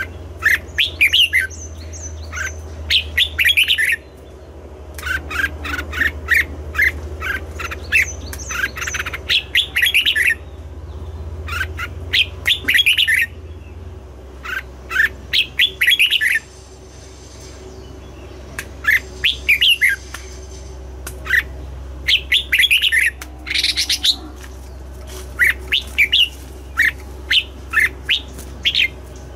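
Red-whiskered bulbul singing: bouts of quick, chirpy notes in short phrases of one to three seconds, repeated again and again with brief pauses, over a steady low hum.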